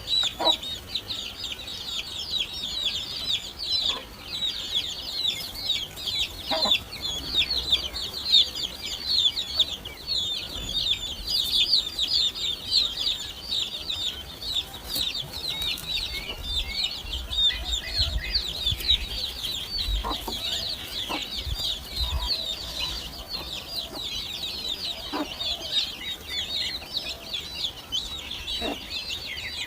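Great tit nestlings begging: a dense, continuous chorus of rapid high-pitched chirps.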